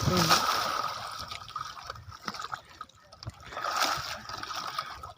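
Water splashing and trickling around a person moving in the water, with small drips and sloshes, swelling near the start and again about four seconds in.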